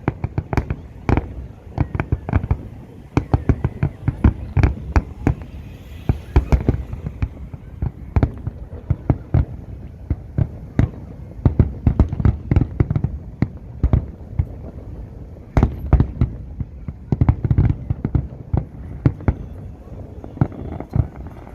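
Fireworks display: a rapid, irregular barrage of shell bursts and crackling reports, several bangs a second, with rumble between them.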